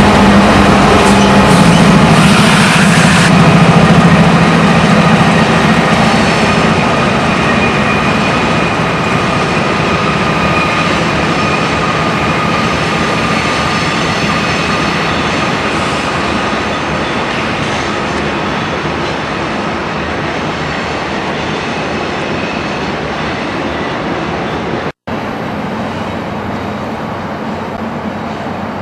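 Train passing: a diesel locomotive's engine drone drops in pitch as it goes by about two seconds in, followed by the steady rumble of rolling cars that slowly fades. A brief gap in the sound comes near the end.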